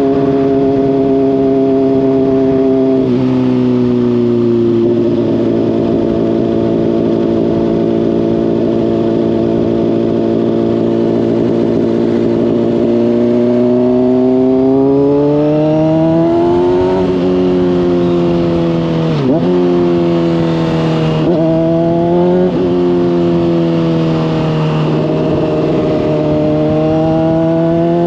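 Honda CBR600RR's inline-four engine through a slip-on exhaust, under way. It drops in pitch at a gear change early on, holds steady for several seconds, then revs up hard about halfway, followed by a few quick sharp dips in pitch as it shifts and rides on.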